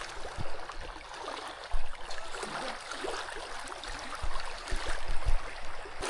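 River water splashing and sloshing as a fishing net is hauled through it, with a few low thumps.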